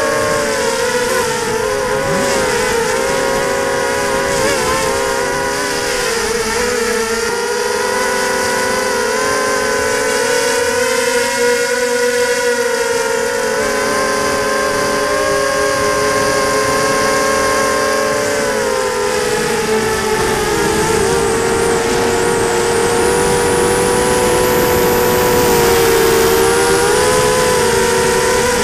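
Onboard sound of a Pitbull 250 FPV racing quadcopter in flight: its brushless motors and propellers whine steadily, the pitch wavering with throttle and dipping briefly about twenty seconds in. Gusty wind rumbles on the microphone underneath.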